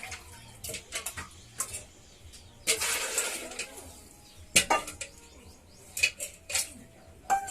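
Kitchen utensils and dishes knocking and clinking, a series of sharp clicks with a brief rushing scrape about three seconds in and a short ring near the end.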